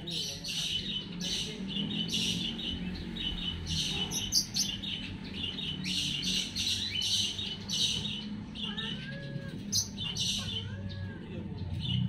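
Birds chirping in short, high-pitched notes repeated two or three times a second, over a low steady hum.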